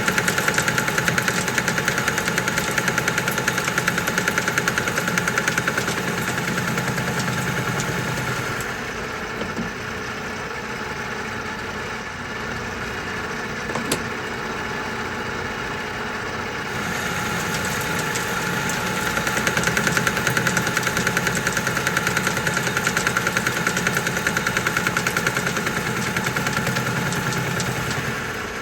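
Metal lathe boring out a steel press plate with a boring bar: two cutting passes, each with a fast regular knock, typical of the tool crossing a slot in the bore. Between the passes, about a third of the way in, the lathe runs more quietly without cutting, and there is a single sharp click near the middle.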